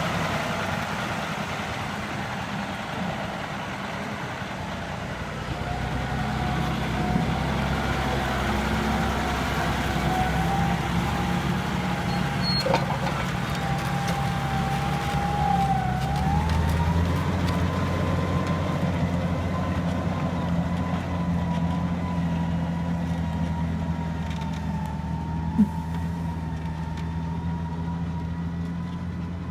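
John Deere 6140R tractor's diesel engine running steadily, with a high whine that rises in pitch about halfway through. A brief sharp click near the end.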